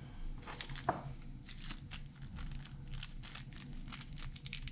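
Rustling and quick light clicks of small parts and packaging being handled, several a second, over a low steady hum.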